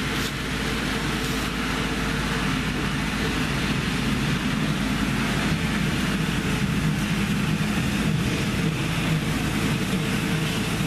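Lawn mower engine running steadily at a distance, a continuous drone.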